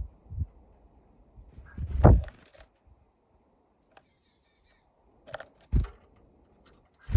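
Dull knocks and thumps of small birds landing and pecking on a window-mounted bird feeder, the loudest about two seconds in. A short, quick bird call comes a little after the middle.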